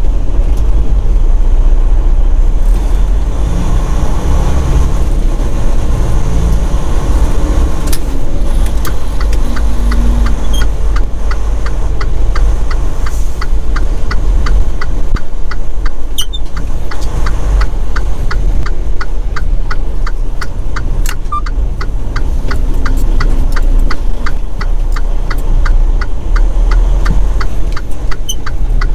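Semi truck's diesel engine running at low speed while the truck is manoeuvred in a parking lot, a steady low rumble. From about a third of the way in, the indicator flasher clicks evenly, about twice a second.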